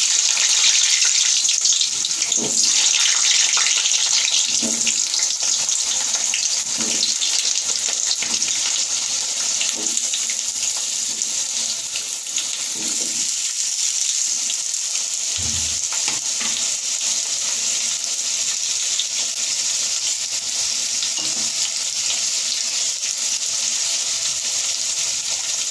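Cut potatoes frying in hot oil in a wok: a steady sizzle, with a few soft knocks as more pieces go in.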